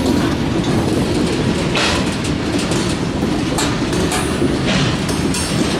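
Loaded covered hopper cars of a freight train rolling past, steel wheels rumbling and clacking over the rail. Three short hissy bursts rise above the rumble, about two, three and a half, and four and a half seconds in.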